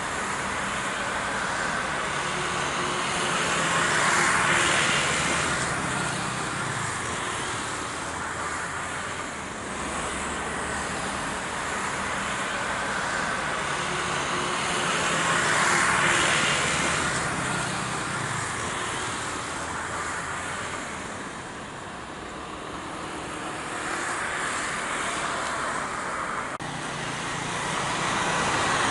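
Road traffic noise: a steady rumble of passing vehicles, swelling as cars go by three times, with a faint jet aircraft engine underneath.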